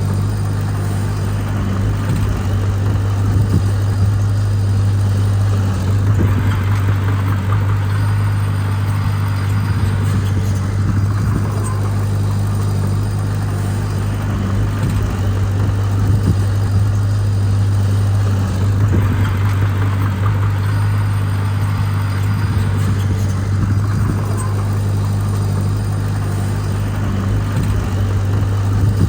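Heavy diesel engine of earthmoving machinery running steadily with a deep, even hum, growing rougher and louder for a few seconds at a time, several times over.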